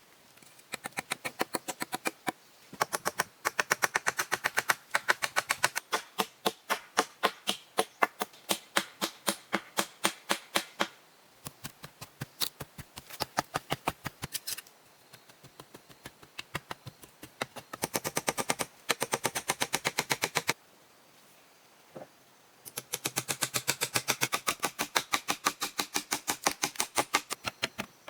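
Rapid runs of sharp taps or knocks, several a second, in bursts of a few seconds separated by short pauses, with a single knock near the end.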